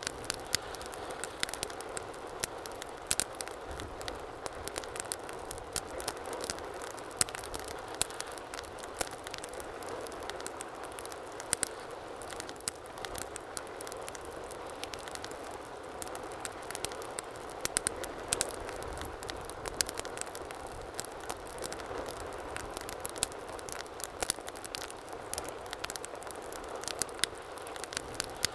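Wood fire crackling in a fireplace: frequent sharp, irregular pops and snaps over a steady soft hiss of flame.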